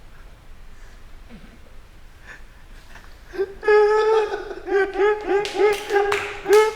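A person laughing in a high-pitched run of short, repeated "ha" sounds, about four a second, starting about halfway through after a few quiet seconds.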